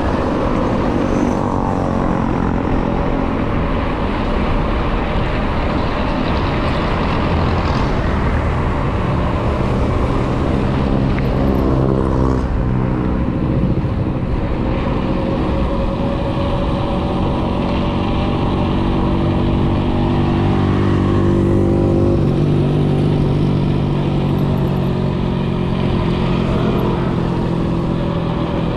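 Riding noise from a mountain bike coasting downhill on a road: wind rushing over the microphone and a steady hum from the moving bike, its pitch drifting slowly with speed.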